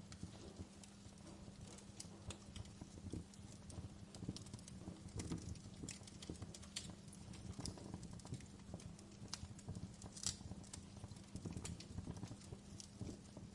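Wood fire crackling, with irregular sharp pops over the low rumble of the flames; the loudest pop comes about ten seconds in.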